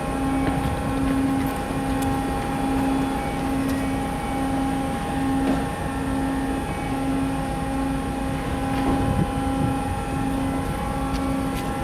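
Large car ferry's diesel engines and machinery running with a steady low drone, several held tones over it, one of them pulsing about once a second.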